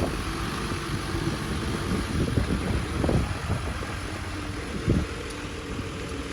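Diesel engines of an excavator and dump truck running steadily, with a few short dull knocks about three and five seconds in.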